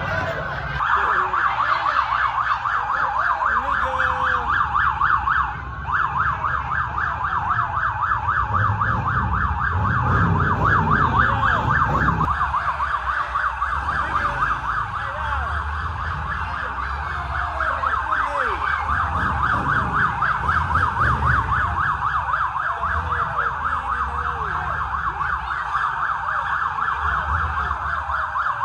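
Police siren sounding in a fast, rapidly warbling yelp that goes on steadily, briefly dipping about six seconds in, over a low rumble.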